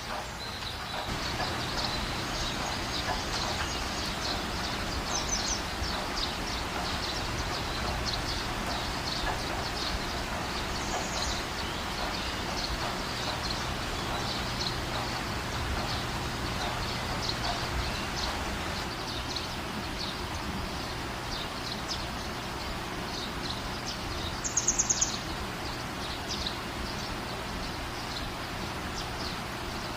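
Steady rain falling, with birds chirping over it. A short, louder burst of rapid high chirps comes about 25 seconds in.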